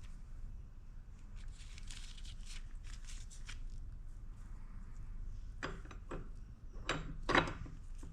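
Tools and parts being handled during work on a motorcycle engine: soft rubbing and scraping, then a few sharp clicks and knocks near the end, over a steady low hum.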